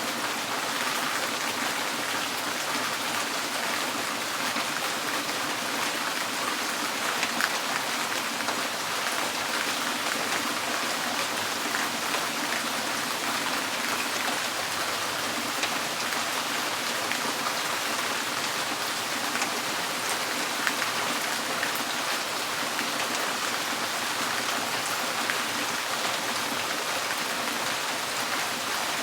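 Steady rain drumming on a tin porch roof: an even hiss of drops with occasional louder single drips standing out.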